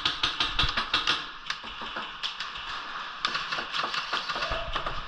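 Sharp clicking shots of airsoft guns: a quick run of about six clicks in the first second, then scattered single clicks.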